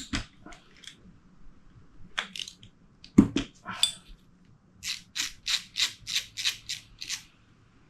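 Small metal carburettor parts and hand tools being handled during disassembly: light clicks and taps, a heavier knock about three seconds in, then a quick run of about nine short rasping strokes, a little over four a second.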